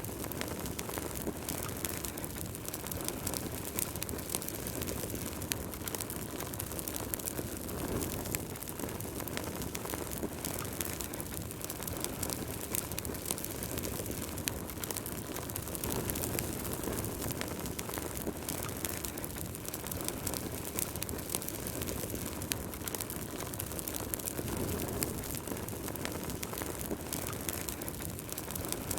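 Wood fire burning in a fireplace: a steady low rumble of flame with many small, sharp crackles and pops scattered throughout.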